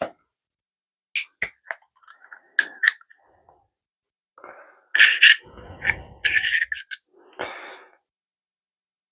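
Handling noises at a workbench: scattered small clicks and scrapes, with a few short hissing rushes about five to seven seconds in.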